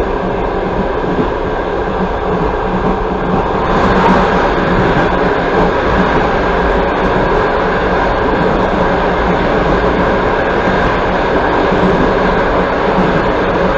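Passenger train running at speed, heard from inside the coach: a steady rumble of wheels on rails with a low hum, growing a little louder about four seconds in.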